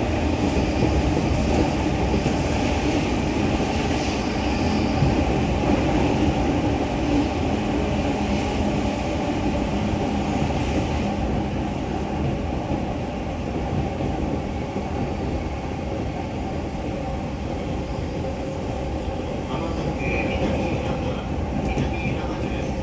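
Running noise of a JR 205 series 5000-subseries electric commuter train heard from inside the car: a steady rumble of wheels and running gear on the rails with a faint steady hum, easing off slightly about halfway through.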